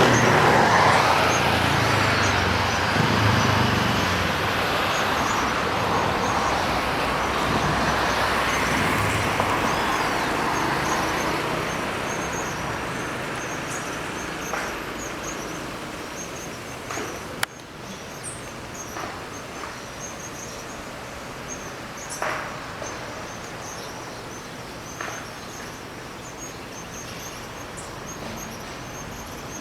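Traffic noise, loudest in the first ten seconds and then fading, with small birds chirping over it throughout. A single sharp click comes about 17 seconds in.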